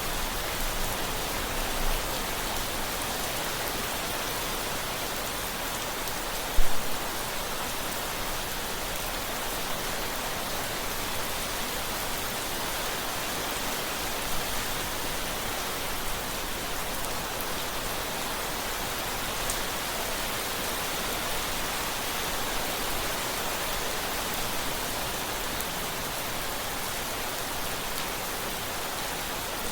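Steady rain falling, an even hiss of drops on a surface, with one brief sharp tap about six and a half seconds in.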